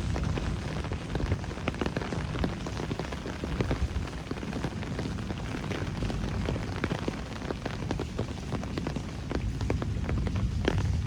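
Steady rain falling, with many close, sharp drops and drips striking hard surfaces, over a constant low rumble.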